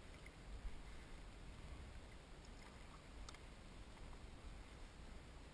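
Near silence: a faint low rumble, with a single faint click about three seconds in.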